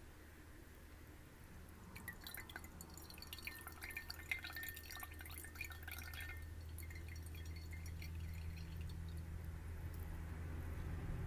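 Water dripping into glass: quick small drips and glassy plinks for about five seconds, starting about two seconds in, over a steady low hum.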